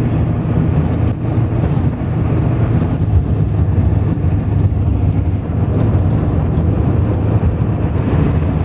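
Vehicle driving along at steady speed: a continuous low engine and road rumble that starts abruptly.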